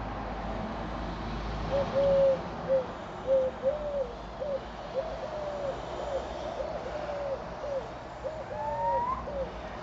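Bird calls: a run of short, hooting notes, unevenly spaced, starting about two seconds in, with a single rising call near the end.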